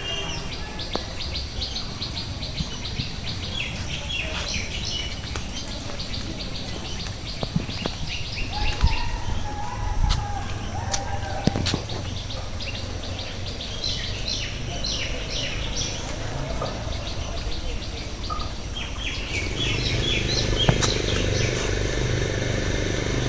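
Birds chirping in quick runs of high notes that come in several bursts, over steady low outdoor background noise.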